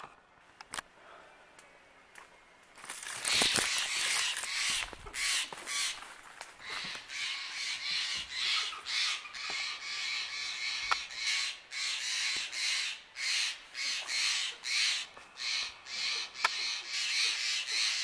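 A bird giving harsh, scratchy calls over and over, about two a second. The calls start about three seconds in, loudest at first.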